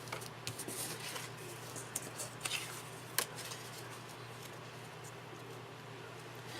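Light handling of scrapbook paper and embellishments: a few small, sharp clicks and taps in the first three seconds, then only a faint steady low hum.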